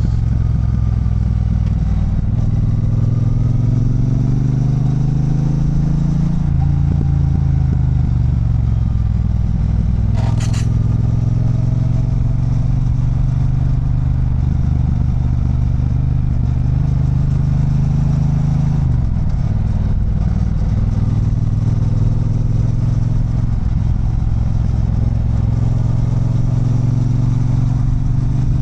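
Triumph Bonneville Bobber's parallel-twin engine running on a downhill ride. Its pitch glides with road speed and drops sharply twice before climbing again. There is one brief sharp noise about ten seconds in.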